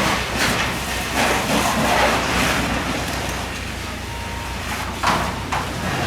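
An engine running steadily with a rushing hiss over it, and a sharp burst of noise about five seconds in.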